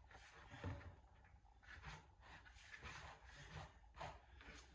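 Near silence with faint, scattered rustles and a few light knocks.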